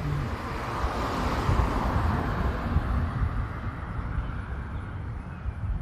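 Road traffic: a passing vehicle's rushing noise swells over the first couple of seconds and then fades, with wind rumbling on the microphone underneath.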